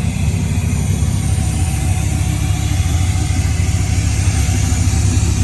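The 8.3-litre V10 Viper engine of a 2006 Dodge Ram SRT-10 pickup idling steadily with a choppy, pulsing idle typical of an aftermarket camshaft.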